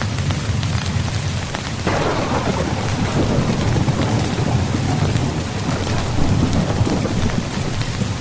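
Steady rain falling on a tent, with a roll of thunder that breaks in suddenly about two seconds in and rumbles on.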